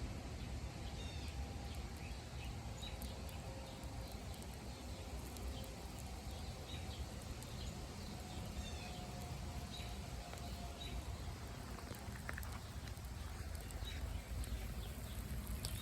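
Outdoor ambience: small birds chirping on and off over a low, steady rumble.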